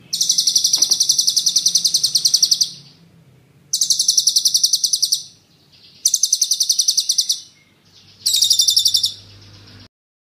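Songbird giving four rapid-fire rolling trills ('tembakan'), each a fast run of high, sharp repeated notes lasting one and a half to two and a half seconds, with short pauses between them.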